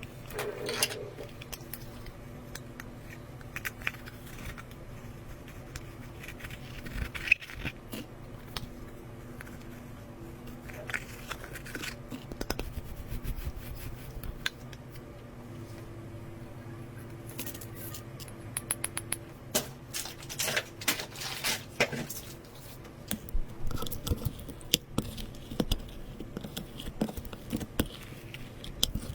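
Slime with cosmetics mixed into it being squeezed and worked by hand: irregular sticky clicks and crackles, sparse at first and coming thick and fast in the second half.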